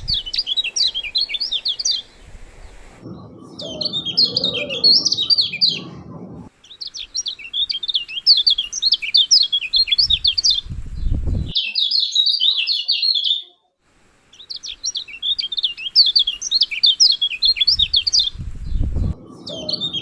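Lemon-bellied white-eye (kecial kuning) singing: repeated phrases of rapid, high chirping notes, each phrase two to four seconds long, with short gaps between them. Some phrases have a low rumble beneath them.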